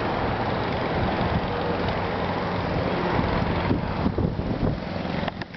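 Steady outdoor noise: wind on the microphone over the low hum of a running vehicle engine.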